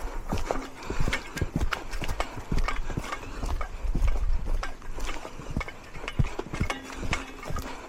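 Footsteps walking on a dirt trail: a quick, irregular run of taps and crunches, over a low rumble.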